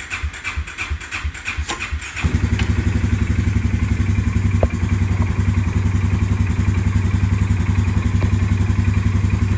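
2017 Polaris Sportsman 570 ATV's single-cylinder EFI engine cold-starting at about −2 °F: the starter cranks it with a rapid pulsing for about two seconds before it catches, then it settles into a steady idle. It starts readily, with fewer turnovers than expected.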